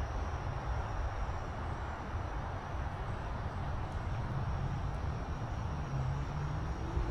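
Steady outdoor background: a low rumble and hiss with a faint, high, steady whine above it.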